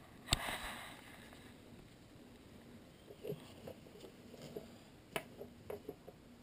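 Light clicks and taps of small metal and plastic pistol parts being handled and set down, with a sharper click just after the start and another about five seconds in.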